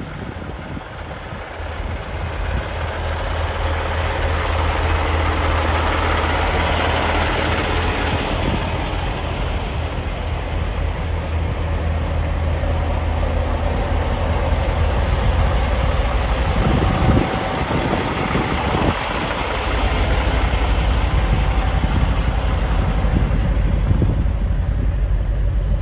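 Vehicle engine running steadily with a low hum under a broad rushing noise.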